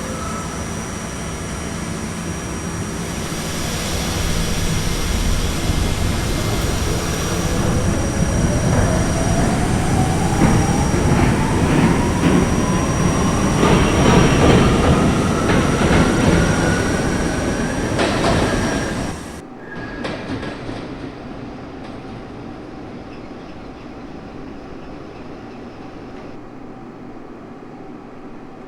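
R68A subway train accelerating away from a station: a whine climbs steadily in pitch for about twelve seconds over loud wheel clatter on the rails. About two-thirds of the way through, the sound drops suddenly to a quieter, steady running rumble.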